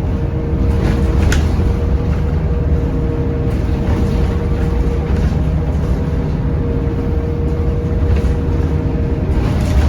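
Scania K230UB bus, its nine-litre five-cylinder diesel and ZF automatic gearbox running under way: a steady low rumble with a steady whine over it.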